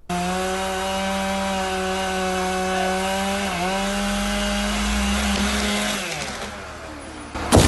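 Chainsaw running at high speed while cutting into a dead tree, its pitch dipping briefly about halfway through as it takes the load, then dying away about six seconds in. A sharp knock near the end.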